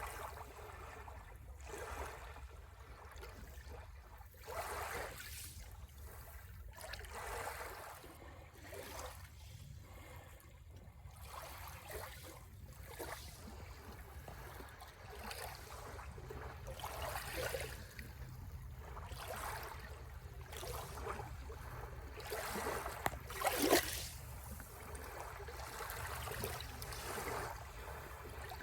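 Sea waves washing in and drawing back on the shore in irregular surges every second or two, over a steady low rumble of surf. One stronger wave breaks about three quarters of the way through.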